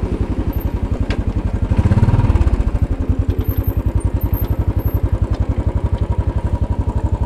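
2010 Royal Enfield Bullet 500's single-cylinder engine running at low revs, its exhaust beats even and distinct, swelling briefly louder about two seconds in.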